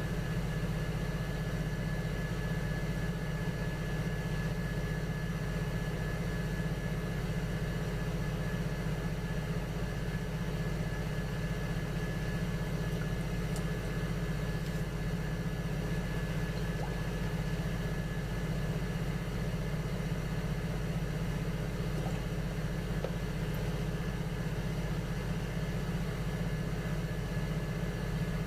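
Electric potter's wheel motor running at a steady speed: an even hum with a thin high whine above it.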